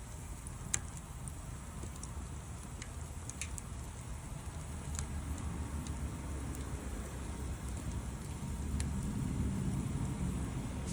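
Wood fire crackling, with scattered sharp pops, the loudest about a second in, over a low steady rumble that grows a little louder near the end.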